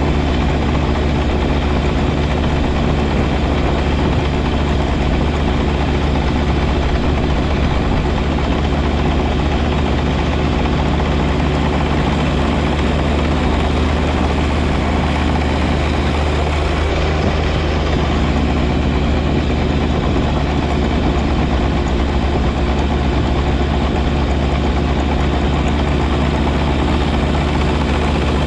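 John Deere 1025R compact tractor's three-cylinder diesel engine running steadily, with a constant low drone and no change in speed.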